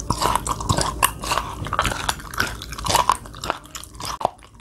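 Close-miked chewing of raw chicken gizzard sashimi, with irregular crisp, wet crunches several times a second.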